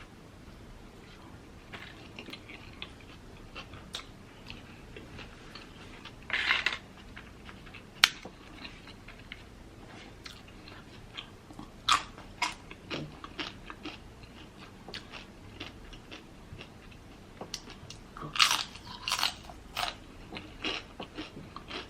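Close-up chewing and crunching of food in the mouth, with irregular bites and wet mouth clicks. Louder crunching comes in short clusters about six seconds in, around twelve seconds and again between eighteen and twenty seconds, with one sharp click about eight seconds in.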